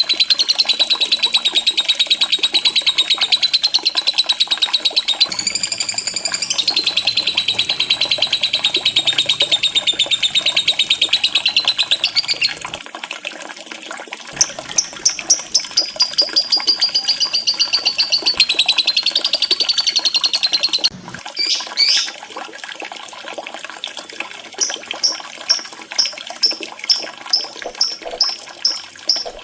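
Lovebird chattering in a long, fast, unbroken trill for about twelve seconds, then in quicker pulsed notes and a second trill, ending in a string of short, evenly spaced chirps about three a second. Faint running water sits behind it. This is a lure call to get a silent lovebird singing.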